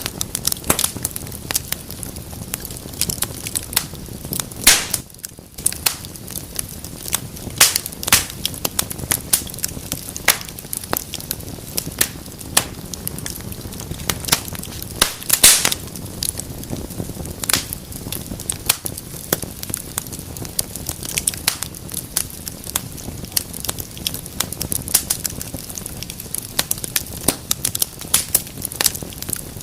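Fire burning in a fireplace, crackling steadily with many irregular sharp pops and snaps over a low, even hiss. A few pops stand out louder, about five seconds in and again near the middle.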